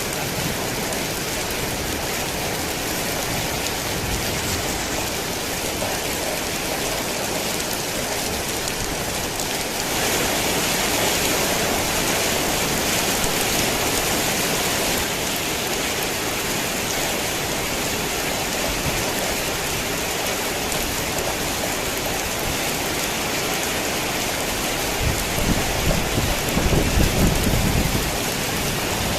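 Heavy rain falling steadily, getting a little louder about ten seconds in. A low rumble of thunder comes near the end.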